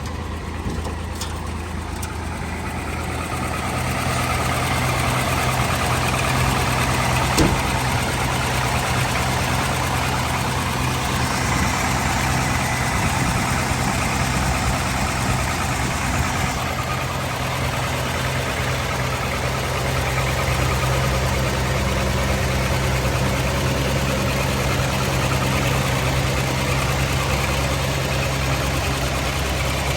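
1980 Chevrolet half-ton pickup's inline six-cylinder engine idling steadily, a little louder after a few seconds, with a knock the seller puts down to a bad connecting rod.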